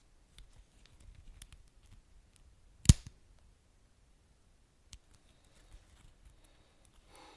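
Wood fire in a fireplace crackling: scattered small pops and ticks with one loud sharp snap about three seconds in and a smaller one near five seconds.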